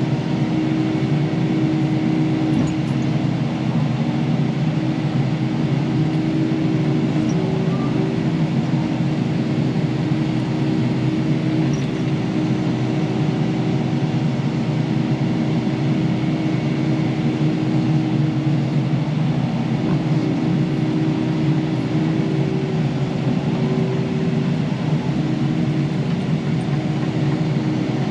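Kubota KX080 excavator's diesel engine running steadily under digging work, a constant drone with a steady hum.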